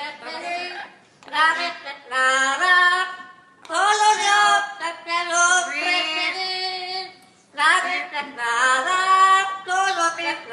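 A parrot singing in a high, human-like voice, imitating a sung melody in several long phrases with short breaks between them.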